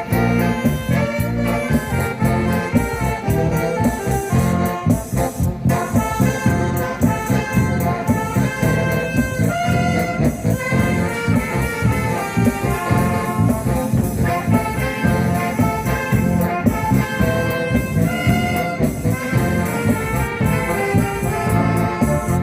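Live instrumental music from an amateur ensemble, with a brass-like melody over a steady beat.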